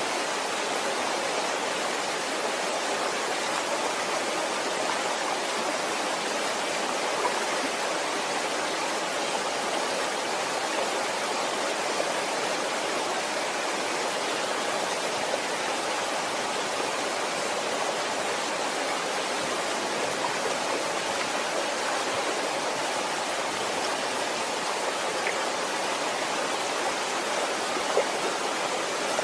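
Waterfall: a steady rushing of falling water, unchanging throughout.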